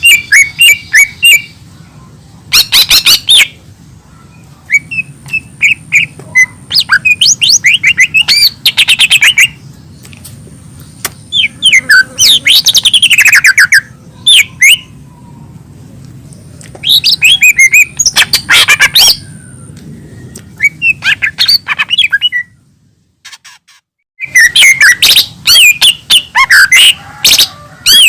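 Cucak ijo mini (a small leafbird) singing loud, rapid phrases of chirps and sweeping whistled notes, each phrase a second or two long with short pauses between, over a low background hum. The song breaks off briefly near the end, then resumes.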